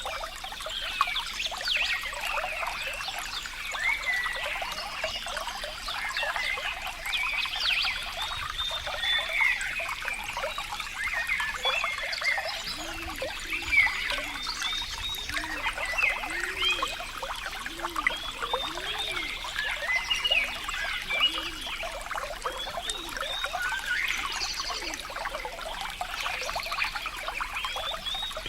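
Water trickling and burbling steadily, full of quick bright plinks and bubbling. About halfway through comes a run of lower gurgling blips, roughly one a second.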